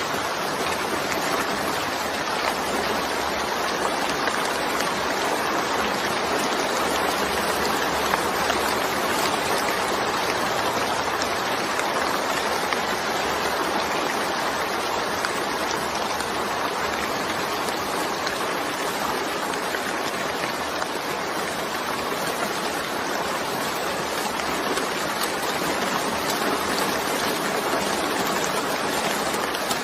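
Steady, even rain noise, a constant dense hiss of falling rain without distinct drops or thunder.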